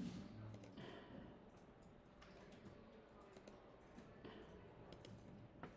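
Faint, scattered clicks of a computer mouse, about five separate clicks over near-silent room tone.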